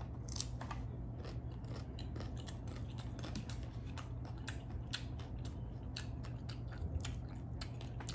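Close-miked chewing of a crunchy taco shell: a rapid, irregular run of sharp crunches and clicks, over a steady low hum.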